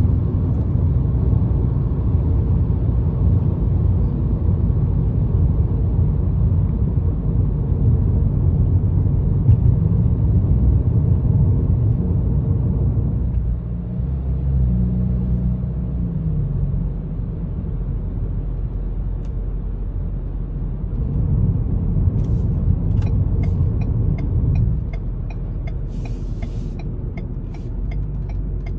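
2022 Ford Maverick with a MagnaFlow aftermarket exhaust, driving: a steady low exhaust rumble with a slight drone, barely noticeable above the wind and road noise. Near the end a run of evenly spaced ticks sounds over it.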